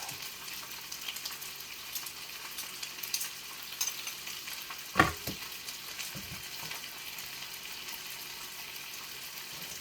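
Ginger frying in oil in a pan with a steady sizzle. A sharp knock about five seconds in, the loudest sound, with a few lighter clicks before and after it.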